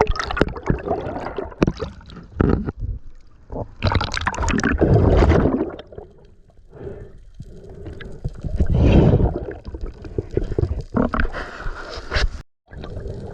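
Seawater gurgling and sloshing around a camera held in and under the sea, with scattered splashes and clicks and two longer, louder rushes of water about four and nine seconds in. The sound cuts out briefly near the end.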